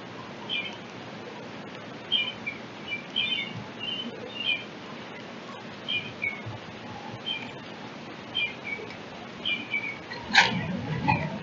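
Small songbirds chirping: short high chirps, singly and in little clusters, about one a second, over a steady outdoor hiss. Near the end a louder low rumble with a sharp click stands out.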